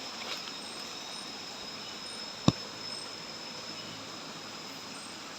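Steady night chorus of forest insects, with a high, even trill held throughout. A single sharp click cuts through about two and a half seconds in.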